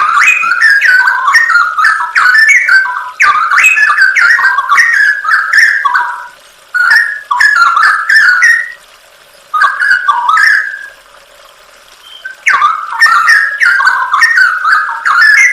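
Straw-headed bulbul (cucak rowo) singing: rapid, loud whistled phrases that rise and fall in pitch, broken by short pauses about six and nine seconds in and a longer one around eleven seconds.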